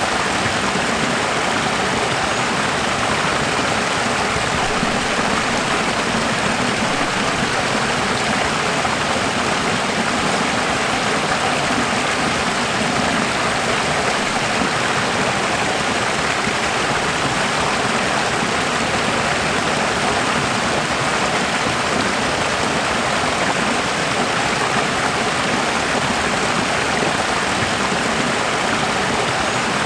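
Running water rushing steadily, an even, continuous sound with no breaks or changes.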